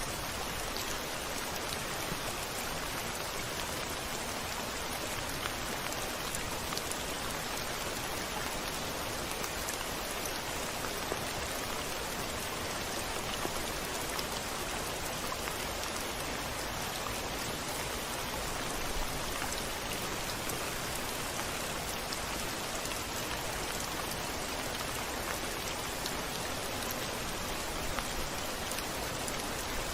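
Steady rain falling on a window, a dense even hiss with scattered small drop ticks.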